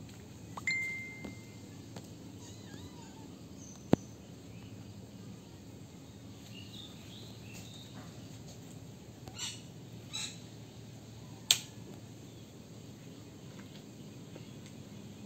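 A few short, high bird chirps and calls over a low, steady background noise. The loudest chirp comes about two-thirds of the way through, and there is one sharp click about four seconds in.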